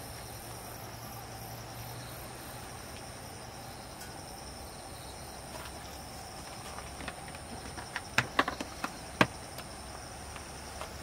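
Crickets chirping steadily at a high pitch over a low, even background noise. From about seven seconds in come a handful of sharp clicks and knocks, the loudest near the end.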